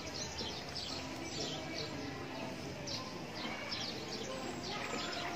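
Birds chirping: short, high, falling calls, several each second, over steady background noise.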